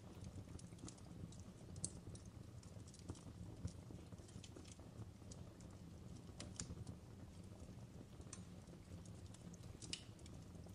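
Fireplace crackling: irregular sharp pops and snaps over a steady low rumble of burning wood, faint.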